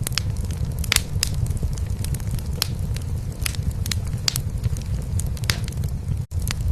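Wood fire crackling in a fireplace, with sharp pops scattered through it, over a steady low purr of a cat. Everything cuts out for an instant near the end.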